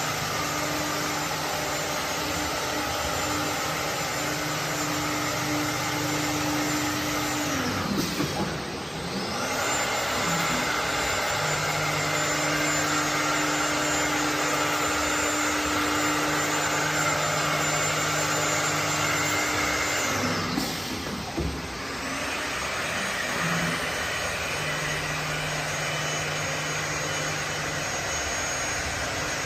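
Four-head CNC router (machining centre) running: a steady high spindle whine over machine noise. Twice the whine winds down and then spins back up, about a third of the way through and again about two thirds through.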